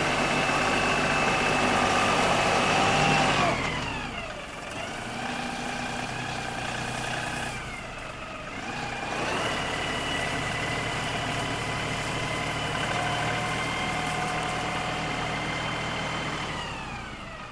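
LS XR3135 compact tractor's diesel engine working as it digs. It runs at a steady high speed, its pitch drops twice in the first half, climbs back up about nine seconds in and holds, then drops again near the end.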